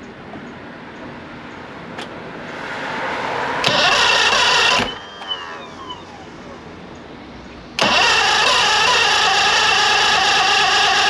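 Mercury 175 EFI outboard being cranked over by its starter without catching: a short crank of about a second, then after a pause a longer, steady crank that carries on to the end. The engine won't fire; fuel pressure drops while it cranks.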